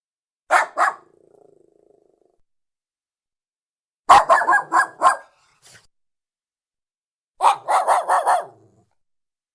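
A Lhasa Apso barking in short rapid volleys: two barks, a faint low growl, then a quick run of about six barks and another of about five.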